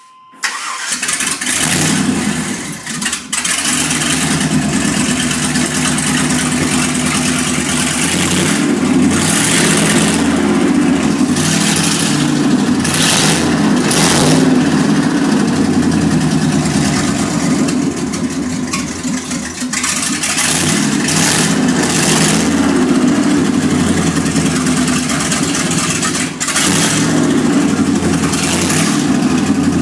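1995 Chevrolet K3500 dually's 454 big-block V8 starting about half a second in, then running and being revved repeatedly.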